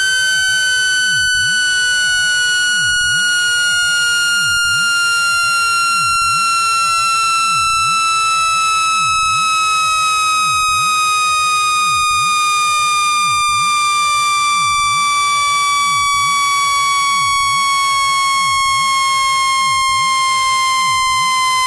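Synthetic speaker-cleaning tone, a steady harsh electronic tone slowly falling in pitch, played at full volume so the speaker cone shakes out water and dust.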